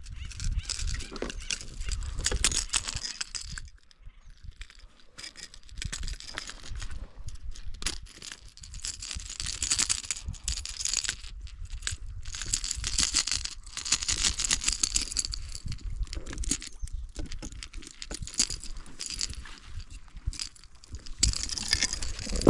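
Fishing gear being handled on a kayak: irregular rattling and clicking with soft knocks, easing off briefly about four seconds in.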